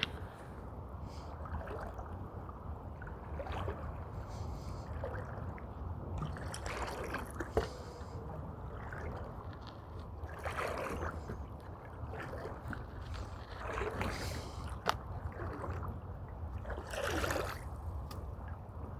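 Creek water trickling and gurgling, with louder swells every few seconds over a steady low rumble.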